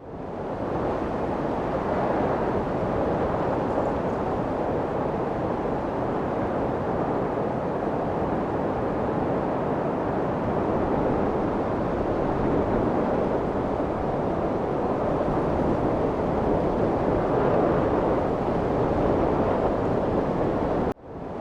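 Wind blowing steadily, an even rushing noise, briefly cut off about a second before the end.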